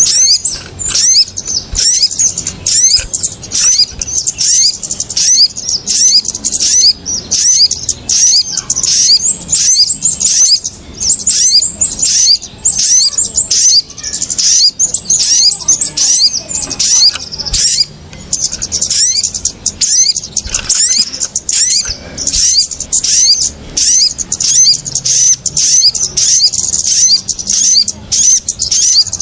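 Agitated calls of small birds, kemade and sogon, in a bird-trapping lure recording: a dense, unbroken stream of rapid, very high-pitched chirps and quick up-and-down sweeps, several birds calling over one another in alarm.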